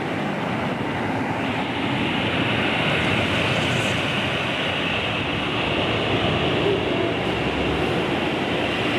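Steady roar of a thunderstorm's rain, an even hiss without breaks, with a low rumble swelling about seven seconds in.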